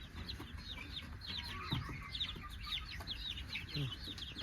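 Flock of desi chickens calling: a dense chorus of short, high, falling peeps many times a second, with a few lower clucks.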